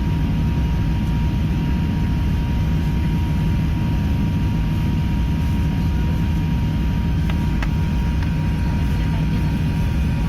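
Steady low rumble of a four-engine Airbus A380 in flight after take-off, engine and airflow noise, with a faint steady whine and a few light clicks in the second half.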